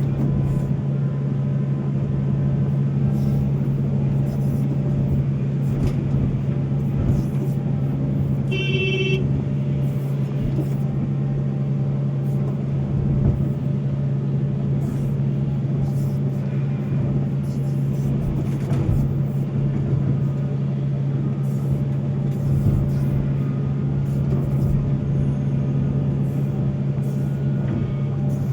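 Volvo excavator's diesel engine running at a steady pitch, with a short high tone about nine seconds in.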